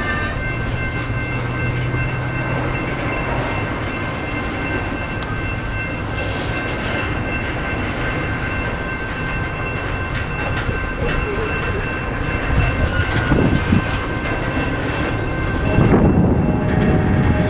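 CSX double-stack intermodal container train rolling through a level crossing: a steady rumble and clatter of wheels on the rails, with a few thin, steady high ringing tones running through it. The clatter grows louder with some heavier knocks in the last few seconds.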